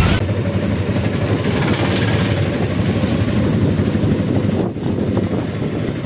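A motor vehicle engine running steadily, heard as a continuous low rumble with street traffic noise, briefly dipping a little under five seconds in.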